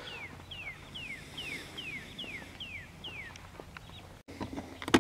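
A bird singing a series of short, down-slurred whistled notes, about two a second, that stops a little over three seconds in.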